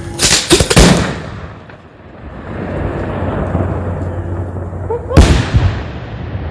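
Bangs from a homemade 3-inch salute firework shell: a cluster of sharp, loud bangs at the start, then another loud bang about five seconds in, each trailing off in a long rumbling echo.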